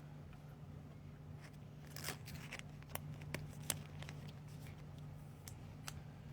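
Trading cards being handled: faint, scattered clicks and short rustles over a steady low hum.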